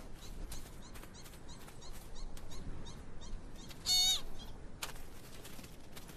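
Small animals calling outdoors: a quick run of short, high chirps, then one loud squeaking call about four seconds in. A few sharp clicks or scrapes sound in between.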